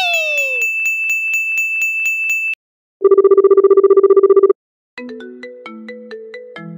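Electronic sound effects: a steady high beep with about four ticks a second, which stops about two and a half seconds in. Then comes a rapidly warbling telephone-style ring lasting about a second and a half, and near the end a short plinking tune of stepped notes.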